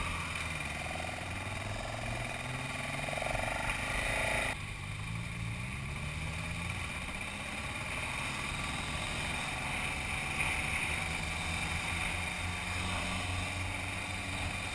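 Motorcycle engine running under way, its note rising and falling with the throttle, under steady wind rush on the helmet-mounted microphone. The sound changes abruptly about four and a half seconds in.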